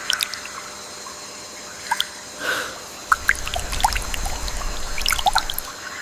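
Water dripping: scattered single drops plinking into water at varying pitches, a few each second, coming thicker in the second half. A low rumble joins about halfway through.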